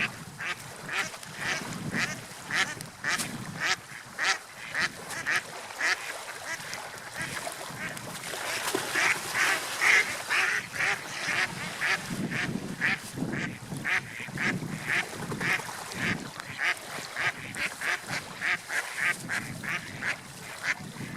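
Gulls calling, a long run of short repeated calls about two to three a second, busiest around the middle, over a steady background of wind and surf.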